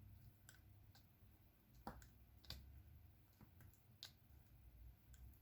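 Faint, irregular clicks of a diamond painting pen tapping resin drills onto the canvas, about one a second.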